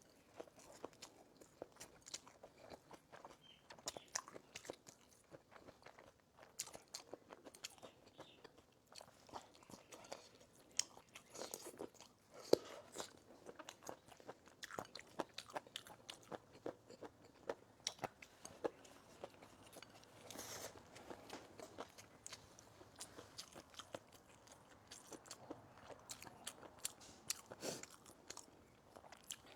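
A person chewing food close to the microphone: irregular wet crunches, bites and small clicks.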